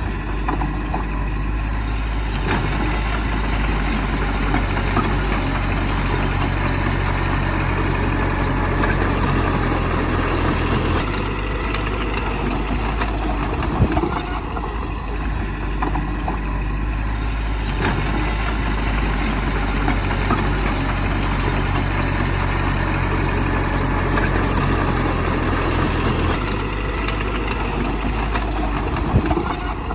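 Heavy diesel earthmoving machinery, a bulldozer or dump truck, running continuously. Its engine note shifts about a third of the way in and again near the end, with a couple of sharp metallic knocks.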